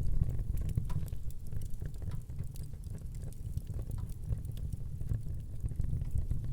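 Wood fire burning in a fireplace: frequent small, sharp crackles and pops over a steady low rumble of the flames.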